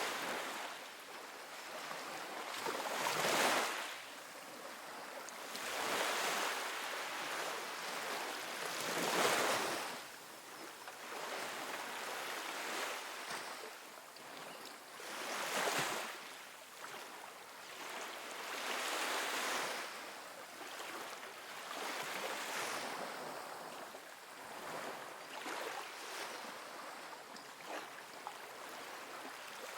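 Gentle ocean waves breaking and washing up a sandy beach, rising and falling in soft swells every few seconds, the biggest around three, nine and sixteen seconds in.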